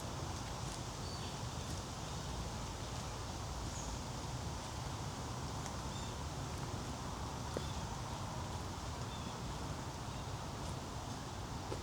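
Woodland ambience on a trail walk: a steady low rumble with scattered faint clicks and rustles from walking, and a few short, high bird chirps.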